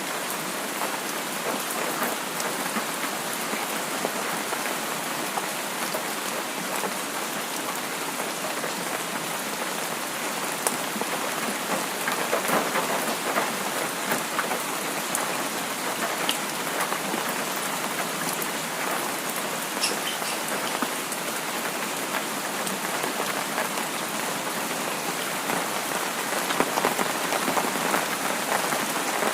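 Steady rain falling and pattering on surfaces, with scattered drop ticks and no thunder.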